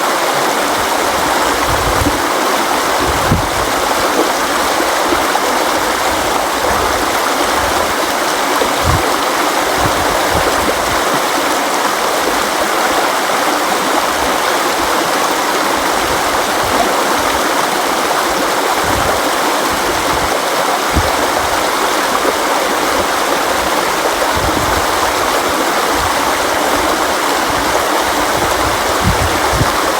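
River water flowing steadily over rocks, a constant rushing with occasional low gurgling thumps.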